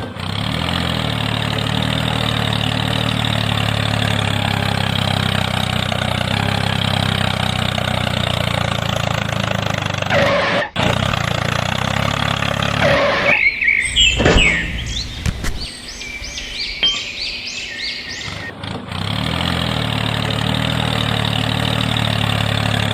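A mini tractor's engine running steadily, with a short break about ten seconds in. It gives way for a few seconds in the middle to a run of quick, high, rising chirps, then resumes.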